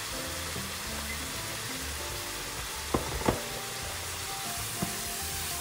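Minced chicken sizzling steadily as it fries in a pan, with two sharp knocks about three seconds in and a lighter one near the end.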